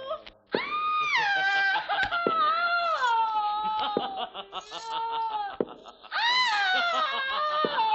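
Cats yowling, drawn-out wailing cries that swoop up and slide slowly down, sometimes two at once, with a brief break about half a second in.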